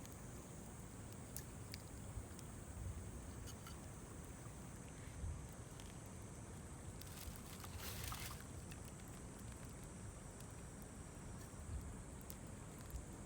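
Small wood campfire in a fire stand burning quietly, with faint scattered crackles and pops. About seven seconds in there is a brief rush of hiss, over a steady high-pitched drone.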